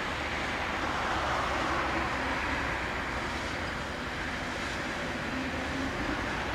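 Steady rumble of a passing vehicle, swelling about a second in and slowly easing off.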